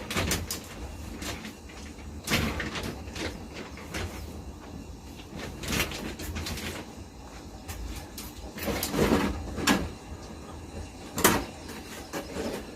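Scattered knocks and clatters of objects being handled or set down, a few seconds apart, with the loudest near the end, over a low steady rumble.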